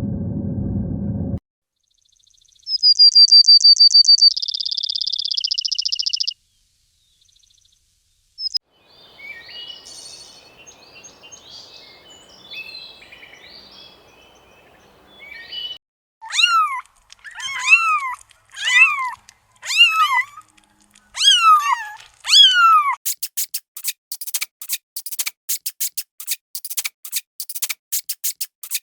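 A run of short animal calls: a high whistled chirping trill, scattered faint chirps, then about seven short rising-and-falling mews like a kitten's, followed by a rapid fine ticking or clicking.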